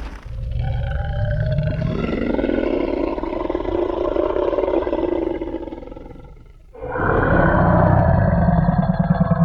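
T. rex roar sound effect: two long, deep roars. The first lasts about six seconds and fades out; the second, louder one begins about seven seconds in.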